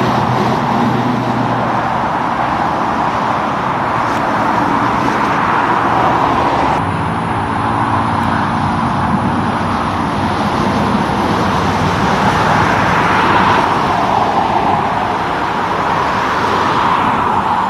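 Highway traffic passing steadily: tyre noise and engine drone from trucks and cars, swelling several times as vehicles go by.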